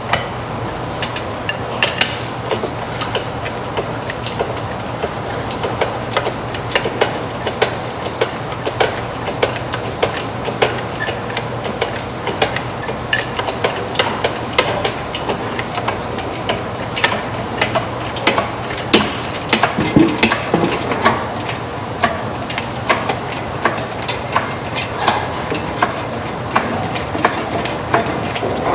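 Hand tools and metal parts clinking and knocking in irregular taps and clanks, over a steady low hum.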